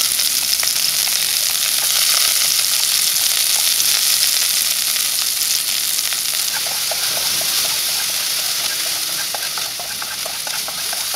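Chopped garlic, chilli, ginger and shallot frying in hot oil in a wok, a steady high sizzle. From about halfway, light clicks come through as the pieces are stirred with chopsticks.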